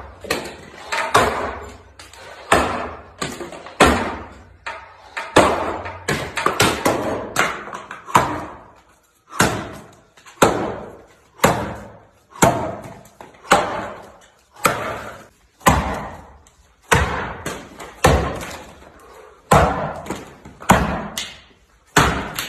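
A steady series of sharp blows struck on wood, about one a second, each with a short dying tail.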